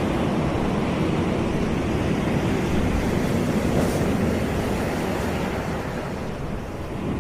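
Surf washing continuously on a tropical beach, a dense steady rush with a heavy low rumble. It eases off gradually near the end as a wave draws back.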